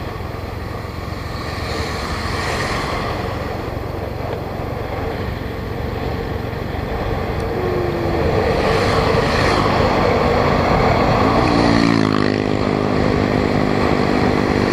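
Motorbike riding down a steep hill, with wind rushing over the microphone above the engine. About eleven seconds in, an engine note rises and then holds steady.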